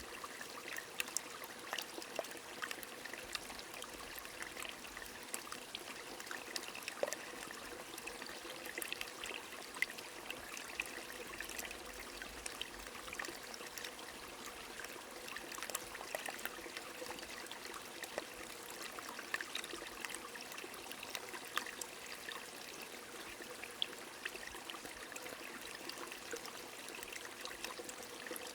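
A small stream trickling and burbling steadily, with rain falling and many light, scattered drop ticks.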